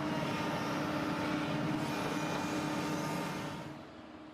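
A motor running steadily with a constant pitch, fading away near the end.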